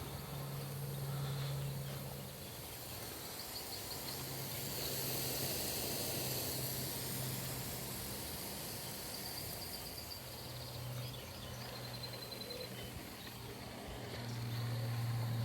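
Pop-up rotor sprinklers spraying water: a steady hiss that swells and fades as the stream sweeps past, over a low steady hum, with short insect chirps.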